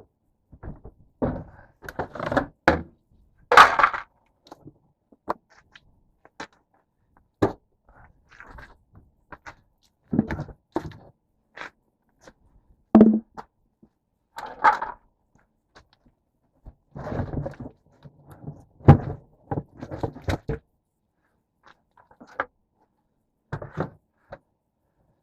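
Irregular knocks, clunks and short scrapes of metal parts and tools being handled during a repair, some sharp and loud, spaced unevenly.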